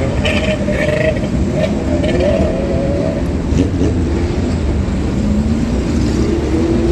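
Classic car engines running close by, the engine pitch wavering in the first half and rising steadily in the second half as a car accelerates away.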